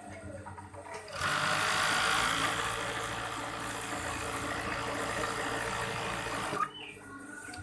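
Overdeck (coverstitch) sewing machine running steadily at speed. It starts abruptly about a second in and stops suddenly near the end.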